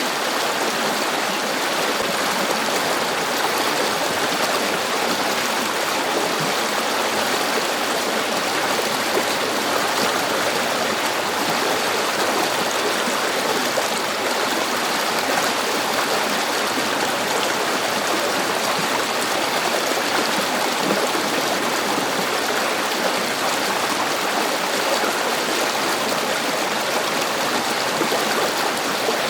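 A river's water rushing and babbling, steady and unbroken.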